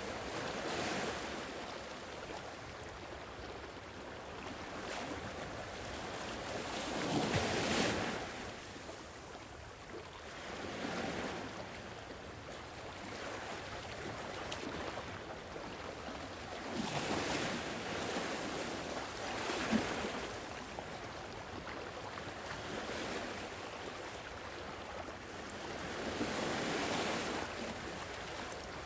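Sea waves washing onto a shore: a steady hiss that swells every few seconds as each wave breaks and then draws back, the biggest wave about seven seconds in.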